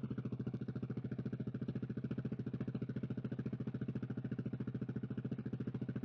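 KTM 690 SMC R's single-cylinder engine idling steadily, with a rapid, even pulse.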